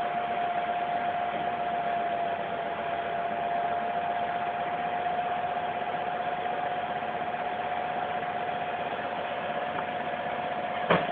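Truck engine running steadily under a constant high whine, with one sharp click near the end.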